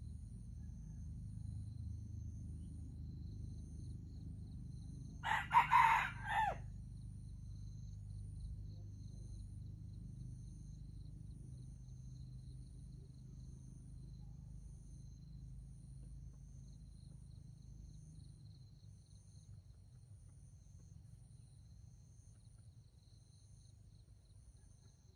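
A junglefowl rooster crows once, a short broken crow of about a second, about five seconds in. Under it run a faint low rumble and a faint high, pulsing insect-like chirring.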